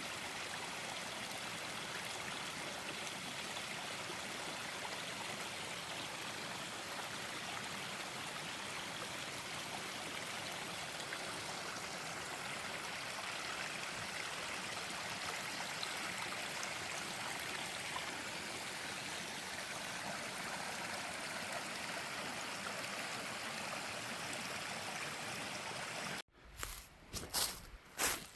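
Steady running water of a spring-fed stream. It cuts off abruptly near the end, and a few footsteps begin.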